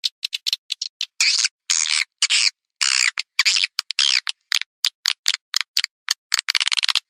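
Recorded swiftlet calls: a run of quick high clicks, then a series of longer chirps of about a third of a second each, then another fast run of clicks near the end, with clean silence between calls. It is a swiftlet call track of the kind played to lure edible-nest swiftlets into a nesting house.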